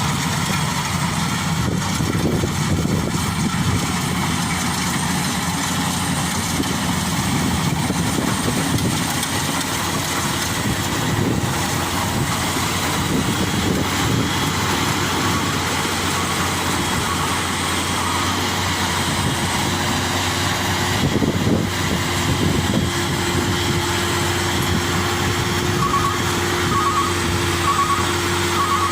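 Heavy diesel engine running steadily. A steady whine joins in about two-thirds of the way through, and faint rapid beeps sound near the end.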